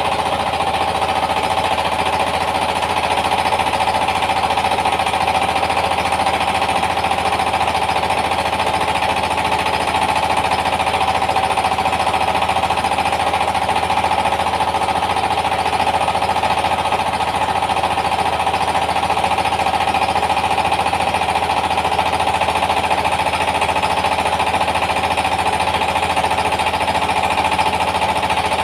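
Yanmar TS 230 single-cylinder diesel engine running steadily with a rapid, even knocking beat, driving a rice milling machine.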